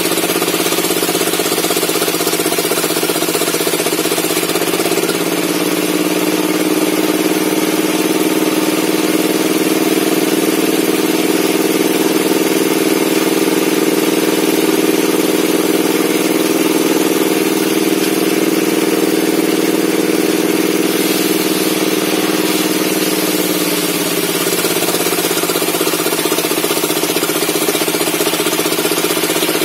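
Engine-driven circular log saw running steadily; its pitch sags from about five seconds in as the blade takes a cut, holds lower under load, and recovers near the end as the cut finishes.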